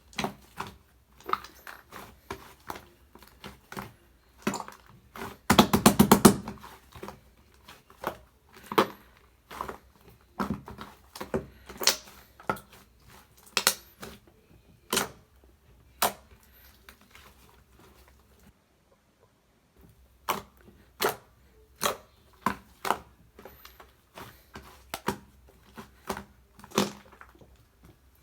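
Mixed slime-and-clay being squeezed and poked, giving sharp irregular pops and clicks, with a dense run of rapid crackling pops about six seconds in and a brief silent pause about two-thirds of the way through.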